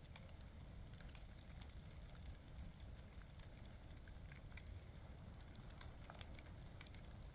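Bonfire crackling faintly, with scattered small pops over a low steady rumble.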